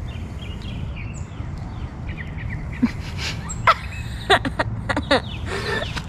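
Birds chirping over a low steady outdoor rumble, with a handful of sharp taps about three to five seconds in.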